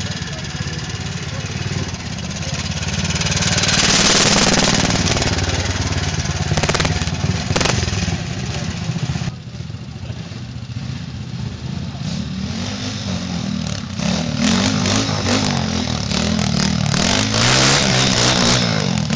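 Trials motorcycle engine running at low revs, the throttle blipped so the revs rise and fall repeatedly in the second half, as the bike is ridden slowly over rocks.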